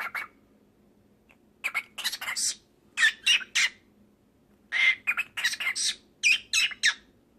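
Cockatiel chattering and squawking in short high-pitched bursts, in four spells with short pauses between them.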